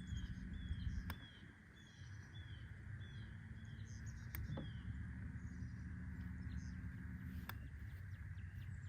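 A bird calling in a run of short, down-slurred high notes, about two a second, then breaking off, with one more note near the end. Beneath it is a faint low steady hum and a few light clicks.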